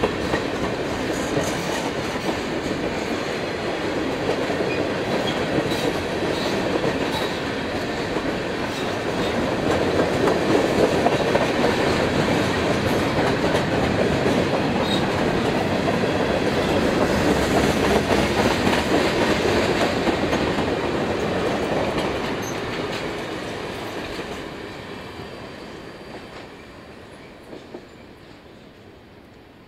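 CSX freight train of tank cars and covered hoppers rolling past at close range, a steady rumble of cars and wheels on the rails. It fades away over the last several seconds as the end of the train passes.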